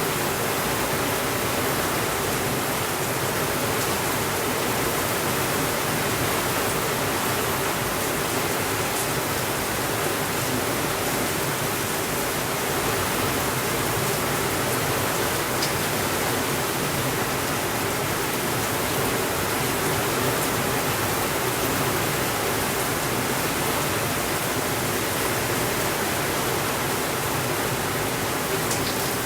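Steady, even rainfall, an unbroken hiss with no thunder.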